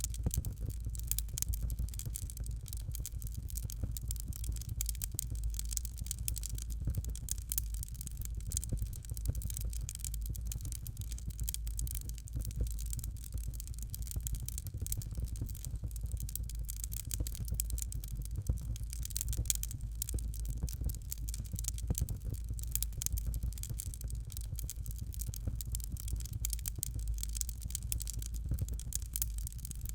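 Fire crackling in a fireplace: dense, irregular sharp crackles over a steady low rumble.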